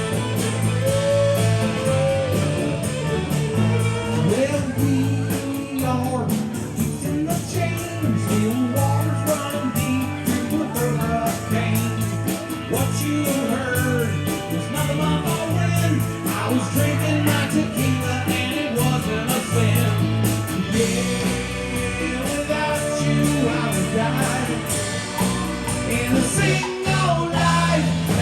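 A song played on guitar with a singing voice over it, the voice sliding between notes above a steady bass line.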